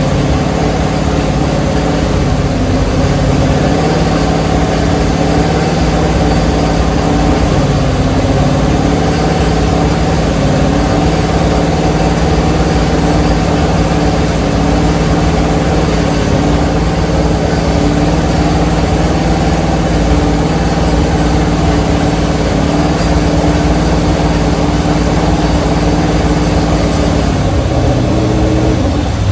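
395-cubic-inch low-compression engine running steadily on an engine dyno, fed by a new EFI test rig instead of a carburettor, at a fast idle. Its speed drops a little near the end.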